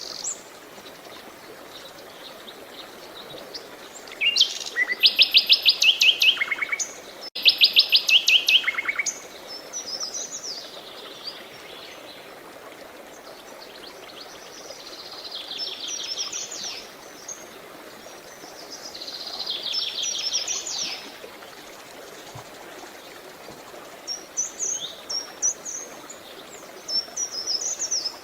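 Songbirds singing in turn: high, fast trills of repeated notes, the loudest about four to nine seconds in, with shorter phrases and chirps later. Under them runs a faint steady wash of flowing water.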